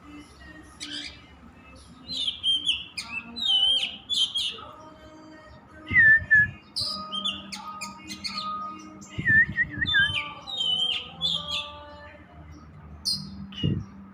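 An Oriental magpie-robin (kacer) singing non-stop: a varied run of short whistles, slurred notes and chirps. A few low thumps come in about six seconds in, again around nine to ten seconds, and near the end.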